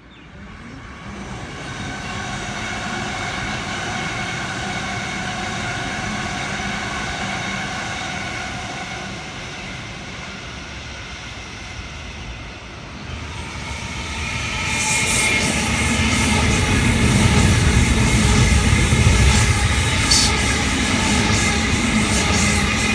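Electric double-deck suburban train approaching with a steady whine of several tones. About 14 seconds in it grows louder as it runs close past, with a deep rumble and wheels clicking over the rail joints.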